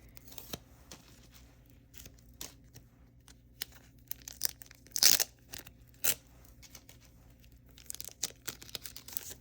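Plastic and paper mail packaging being handled and opened by hand: intermittent crinkling and tearing with scattered short crackles, the sharpest about five seconds in and a quick run of them around eight seconds.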